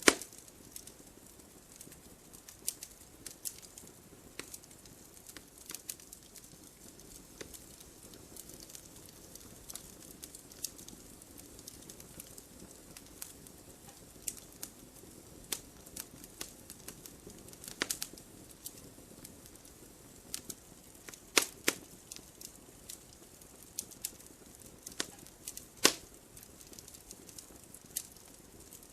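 Wood fire burning and crackling: irregular sharp snaps and pops over a low steady hiss of the flames, with a few louder pops, about a quarter of the way in and twice more near the end.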